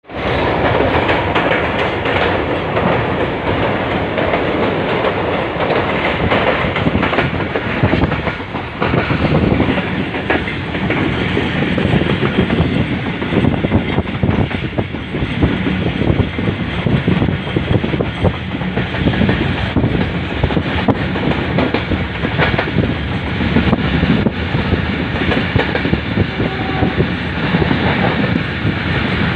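Karachi Express passenger train running on the rails, with a steady loud rumble and wheels clattering over rail joints.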